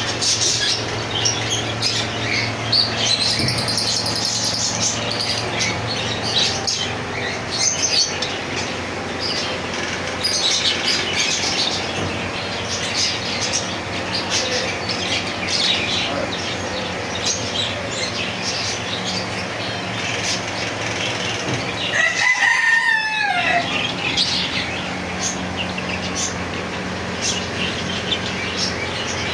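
Many caged birds chirping and calling over one another, with wings flapping. About 22 seconds in, a rooster crows once, a loud falling call.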